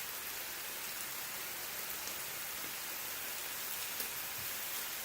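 Thin-sliced lamb sizzling steadily on a grill, with a small pop about four seconds in.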